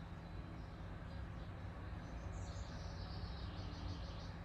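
Pet parrot giving a quick run of faint high chirps, starting about two seconds in and lasting about two seconds, over a steady low hum.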